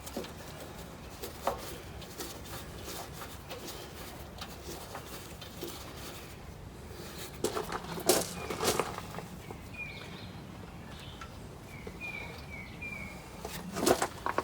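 Scattered light clicks and clanks of metal parts being handled, loudest about eight seconds in and again near the end, with a small bird chirping several times in the second half.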